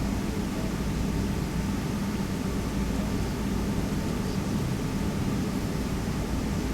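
Steady jet airliner cabin noise on the ground after landing: a low, even rumble with a hiss over it.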